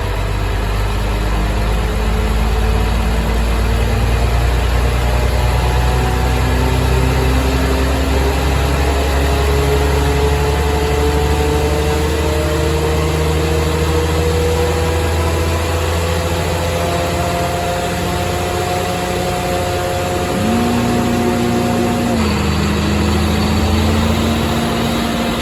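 250 kW Cummins/Onan diesel generator set running steadily with a deep hum, over which a whine slowly rises in pitch and then drops back about 22 seconds in.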